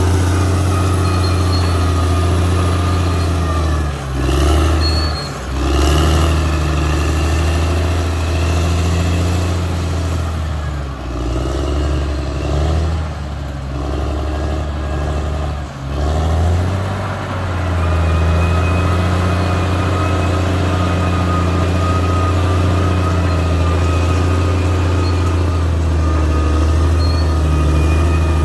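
Caterpillar D6R XL bulldozer's diesel engine running steadily with a thin high whine over it; the engine note dips and recovers several times.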